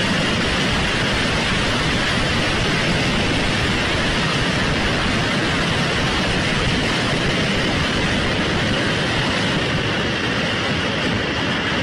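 Steady, loud rushing noise with no separate bangs or impacts.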